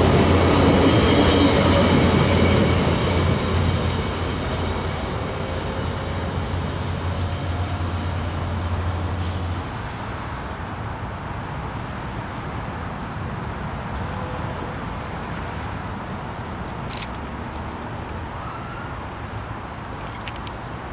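Train rolling past, its sound loud at first and fading as it moves away; a low steady hum cuts off about ten seconds in, leaving a quieter rumble.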